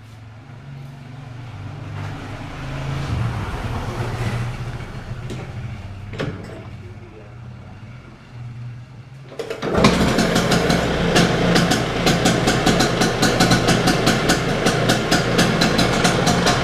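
Vespa VBB 150's single-cylinder two-stroke engine running, with small changes in pitch. About ten seconds in, louder background music with a steady beat starts abruptly.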